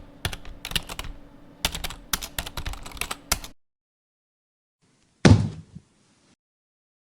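Rapid, irregular clicks like typing on a keyboard, over a low steady hum, stopping about three and a half seconds in. After a pause comes a single loud thud with a deep, falling tail.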